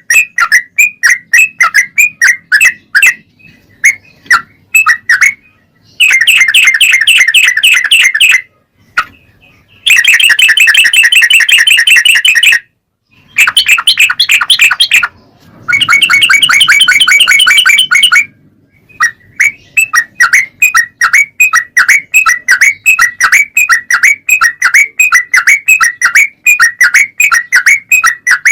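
Yellow-vented bulbul (trucukan) singing: strings of short, quick notes a few per second, broken in the middle by four long runs of rapid chatter with short pauses between them.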